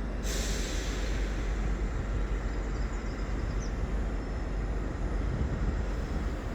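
Train moving through the station with a steady low rumble; a hiss starts just after the beginning and fades over a couple of seconds.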